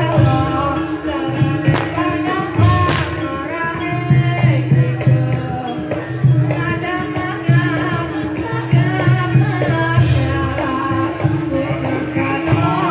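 Live Javanese folk music for a reog / jaranan dance: hand drums beating under a wavering sung melody, with a steady held instrumental tone beneath.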